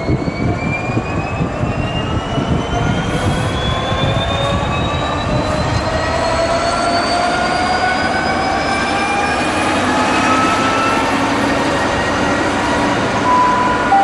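Class 66 diesel-electric locomotive pulling away with an engineers' train, its two-stroke V12 diesel running under load over a steady low rumble. Several whining tones climb slowly in pitch as it gathers speed.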